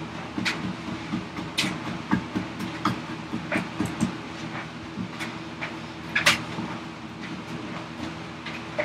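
Hand chisel paring wood down to a layout line: irregular short scraping cuts and sharp clicks, a few seconds apart, over a steady low hum.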